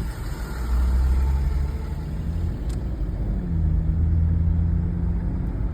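A moving vehicle's engine and road noise as a steady low drone. The engine note drops about three seconds in and then holds steady.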